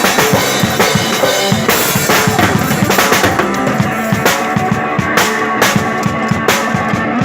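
Live rock band playing an instrumental passage: a drum kit driving with rapid bass drum and snare strokes and several loud accents, under sustained guitar.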